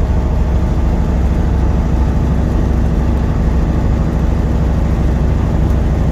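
Peterbilt semi truck's diesel engine running steadily at highway cruising speed, a constant low drone with road noise.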